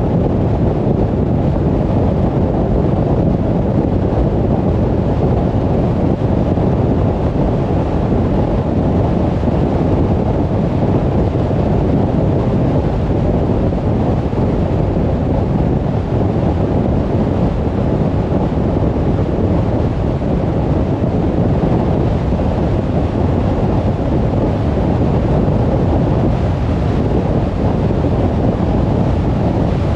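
Steady low rumble of a car driving on the road, tyre and wind noise with no changes or distinct events.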